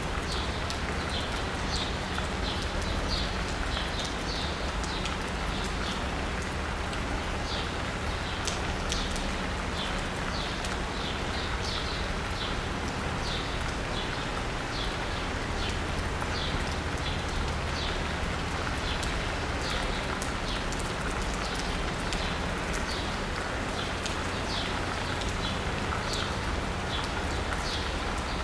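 Steady rain pattering on asphalt and rooftops, with scattered sharp drips. A bird chirps throughout in short high notes about twice a second, over a low steady rumble of city traffic.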